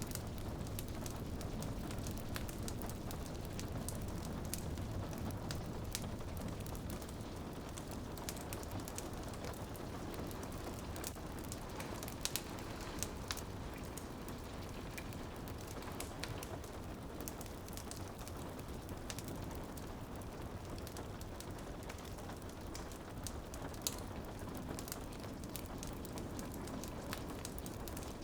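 Steady rain on a window pane mixed with a crackling wood fire, with sharp pops and snaps scattered irregularly throughout.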